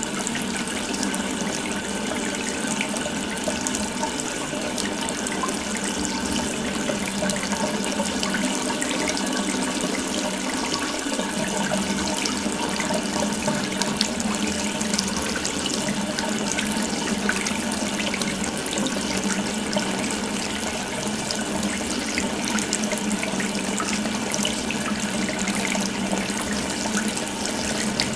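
Water running steadily from an open faucet in a continuous stream.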